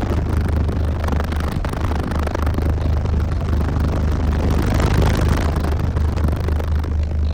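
A car audio system of twelve Sundown Audio 12-inch subwoofers playing deep bass at full tilt. It is a loud, unbroken low drone that pulses slightly, with a dense layer of noise over it.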